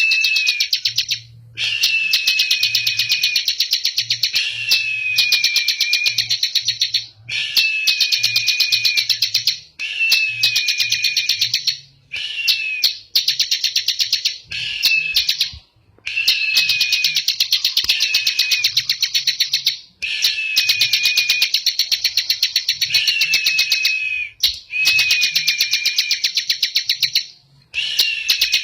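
Bar-winged prinia (ciblek) singing in the 'ngebren' style: rapid rattling trills of two to three seconds each, one after another with short breaks, over a slightly falling whistled note.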